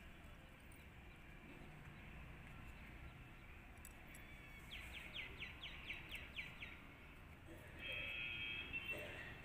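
Bird song over faint outdoor background noise: a quick run of about nine falling chirps, about five a second, lasting about two seconds. Near the end comes a short held call with a steady pitch, the loudest sound here.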